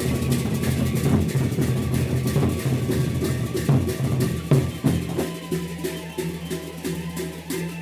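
Gendang beleq ensemble of Lombok playing: large drums and clashing cymbals beat a fast, dense rhythm under held melodic tones. About five seconds in the heavy low drumming drops back, while the held tones and quick metallic strokes carry on.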